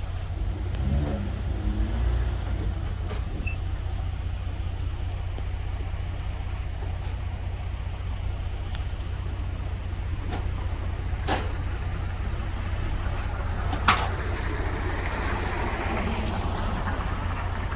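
A vehicle engine running with a steady low rumble. A few sharp clicks or knocks sound over it, the loudest about fourteen seconds in, followed by a short swell of hiss.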